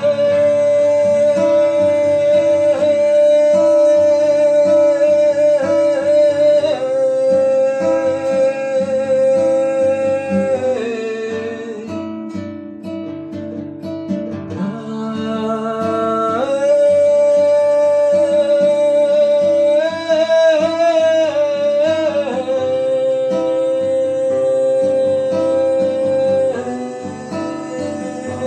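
Improvised music: an acoustic guitar played under a voice singing long, wordless held notes, which drops out for a few seconds midway and then returns.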